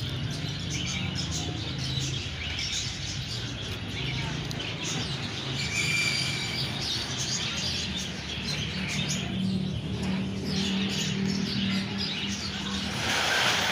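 Many small caged birds chirping and tweeting at once in a bird market, short high calls over a steady low murmur of background voices.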